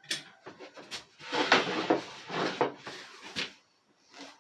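Plywood being handled: irregular knocks and scraping of wood against wood and the work surface, with a longer scrape between about one and a half and three and a half seconds in.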